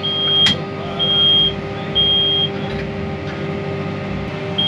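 John Deere 8R 370 tractor's seat-sensor warning alarm beeping in the cab: a high half-second beep about once a second, stopping for about two seconds and starting again near the end, over the steady run of the tractor's engine, with a sharp click about half a second in. The faulty operator-presence seat sensor reads the seat as empty while the driver is sitting in it.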